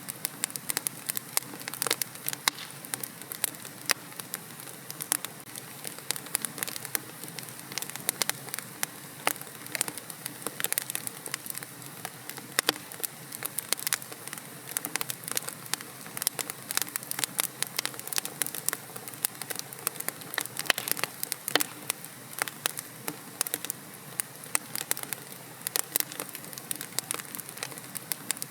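Wood fire burning in a fireplace, with dense, irregular crackles and pops over a soft steady hiss.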